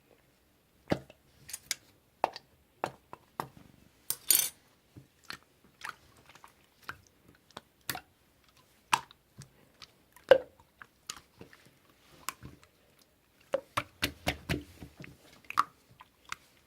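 Slime being pressed, poked and stretched by hand, giving irregular sharp clicks and pops from air pockets, with a short crackling burst about four seconds in and a quick run of small pops near the end.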